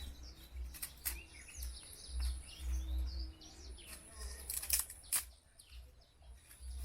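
Small birds chirping and twittering, many short calls, over a low rumble. A few sharp clicks or snaps cut through, two of them close together a little before the last two seconds.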